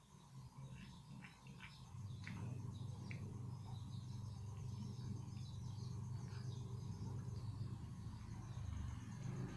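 Faint insects chirping in a fast, even train of high ticks over a steady low hum, with a few short clicks or chirps in the first three seconds.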